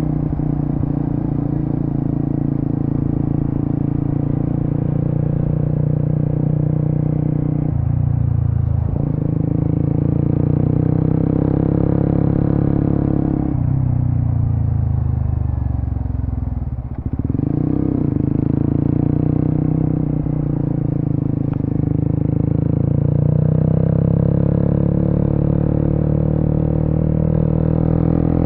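Suzuki GSX-S150's single-cylinder engine running through an aftermarket Quinze big-volume exhaust as the bike is ridden. The note breaks briefly twice, about a quarter and half of the way through, dips sharply a little past halfway as the throttle closes, then builds again.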